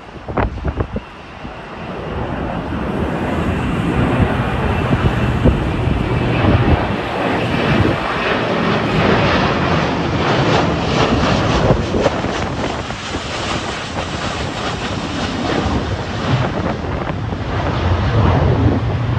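Jet airliner's engines, growing louder over the first few seconds and then holding a steady roar, with wind buffeting the microphone at the start.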